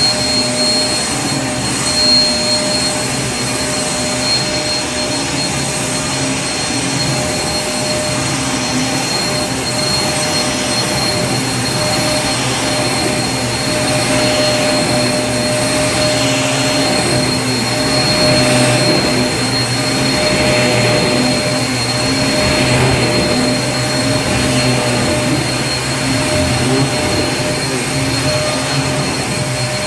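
Vacuum cleaner running continuously at a constant level: a steady motor rush with a fixed high whine over it.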